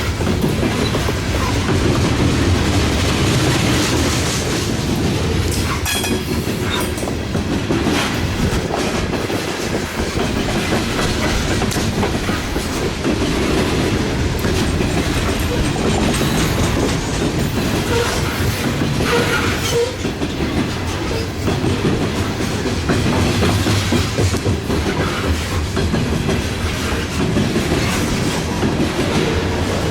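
Freight train cars rolling steadily past, wheels clacking over the rail joints, with a dense continuous rumble and occasional sharper clicks.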